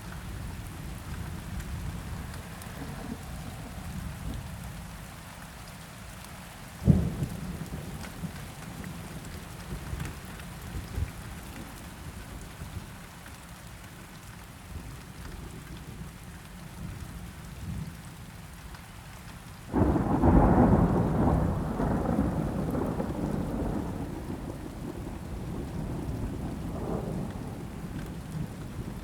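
Steady rain with a single sharp crack about seven seconds in, then a sudden loud roll of thunder about two-thirds of the way through that rumbles and slowly fades over several seconds.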